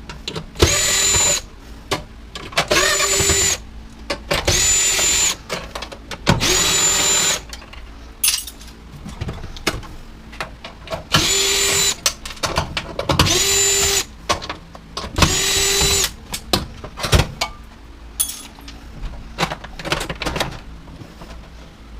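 A power drill/driver backing screws out of a washer/dryer's sheet-metal cabinet, running in short whirring bursts of about a second each, seven in all. Small clicks and metal handling sounds come between the bursts, and only clicks and knocks follow in the last several seconds.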